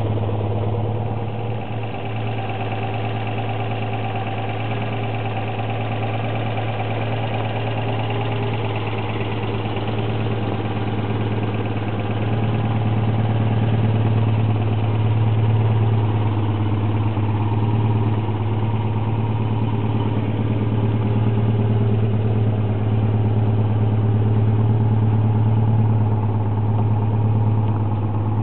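Citroën 2CV's air-cooled flat-twin engine idling steadily, a little louder from about halfway through.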